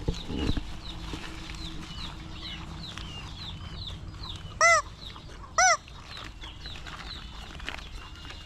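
Chicks peeping continuously in many quick, high, downward-sliding chirps. Two much louder, short, arched calls come about a second apart near the middle.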